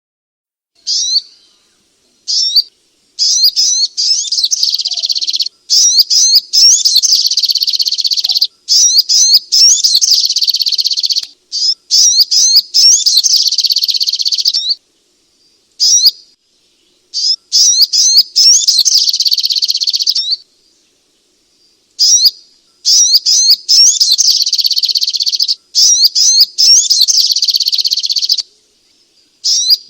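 Sogok ontong (spiderhunter) song: fast runs of high, sharp chirps in bouts of several seconds, broken by short pauses.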